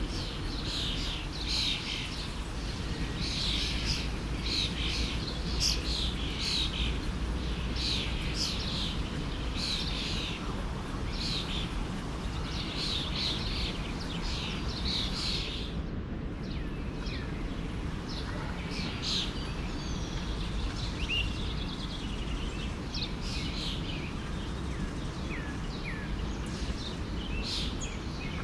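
Several birds chirping and singing in short, repeated calls over the steady rush of a forest stream. The calls come thick at first and thin out about halfway through.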